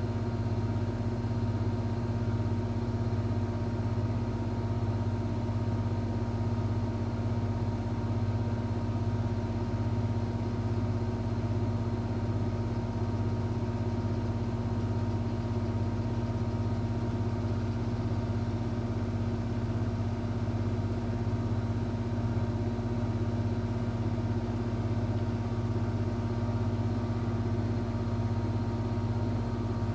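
Electrolux washing machine running with a steady, even motor hum.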